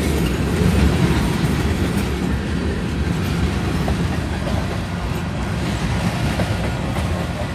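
Freight cars of a BNSF manifest train rolling past: a steady rumble of steel wheels on the rails.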